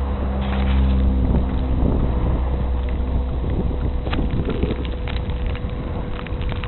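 Strong storm wind buffeting the microphone as a low rumble, with a motor vehicle's engine droning under it for the first few seconds before it fades out.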